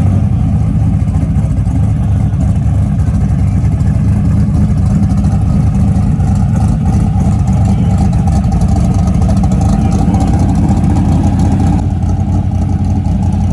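Performance car engine idling with a choppy, lumpy rhythm, the 'chop' of an aggressive camshaft.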